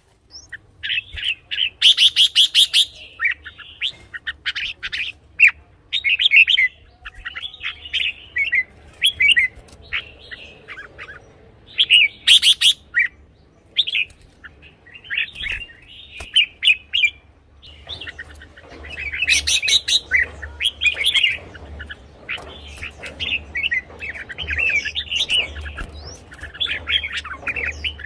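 Red-whiskered bulbul singing: a busy run of short, quick chirping song phrases with brief pauses between them.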